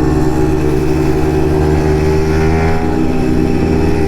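Yamaha MT-15's single-cylinder engine running through an aftermarket Akrapovic exhaust, holding a steady speed with a slight dip in pitch about three seconds in.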